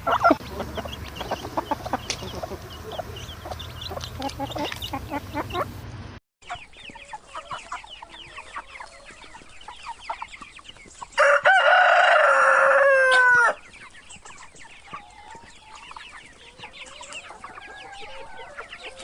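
Chickens clucking and chirping, then after a sudden cut a rooster crows loudly once, about two seconds long with a falling end, over steady chirping.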